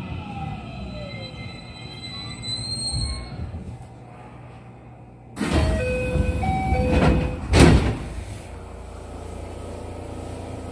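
JR West 207 series commuter train coming to a stop, its traction-motor whine falling in pitch, then the doors opening about five seconds in with a sudden rush of air, a short stepped door chime and a loud thump as the doors reach their stops, before the car settles to a steady hum.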